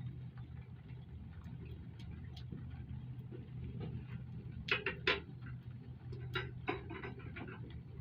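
Metal hardware and tools clinking during a bolt-on install: a few light clicks, then a cluster of sharper metallic clinks about five seconds in and again a second later. A steady low hum runs underneath.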